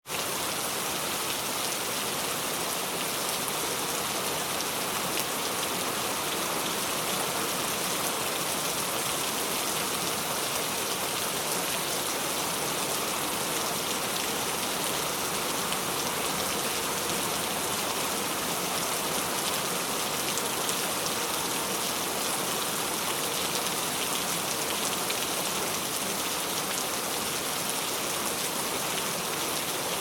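Steady rain falling, a dense even hiss of drops hitting a surface, with fine drop ticks throughout.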